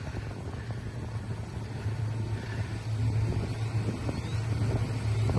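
Jeep Wrangler engine pulling under load as it tows a stuck pickup out of flood water on a recovery rope: a low steady drone that grows louder about two seconds in.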